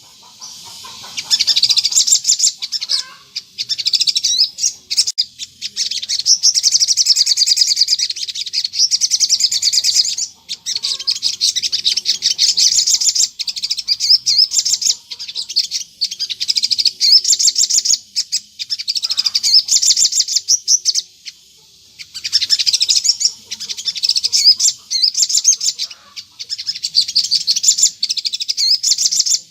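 Sogon (crimson sunbird) singing in long, rapid, high-pitched twittering trills with only brief pauses. This is the continuous 'gacor ngleper' song used as a lure recording to draw other sogon to answer.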